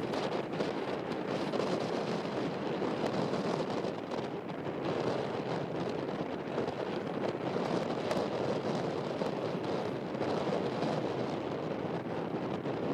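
Jet airliner engines running with a steady rushing roar.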